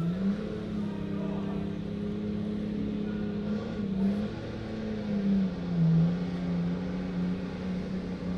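Truck engine running hard at high revs, holding a steady pitch that sags and recovers slightly a few times.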